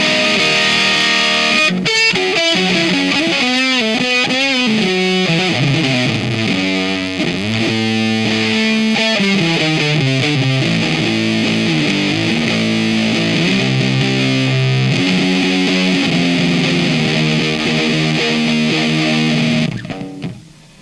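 Electric guitar played through a Diaz Square Face-style transistor fuzz pedal: heavily distorted riffs and held chords with wavering bends and vibrato. The playing stops abruptly near the end.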